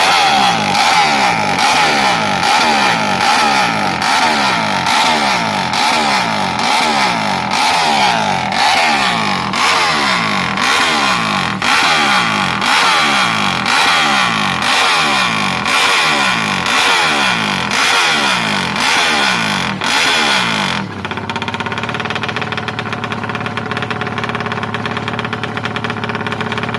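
A Yamaha MX King's fuel-injected single-cylinder engine, bored out to 200cc, revved in repeated throttle blips, about one a second, each rising and falling back. About 21 seconds in, the blipping stops and it settles into a steady idle.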